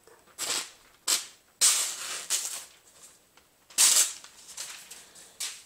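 A freshly sharpened Spyderco Endura knife slicing through sheets of phone book paper: about six short, crisp cutting sounds, the loudest and longest about one and a half and four seconds in.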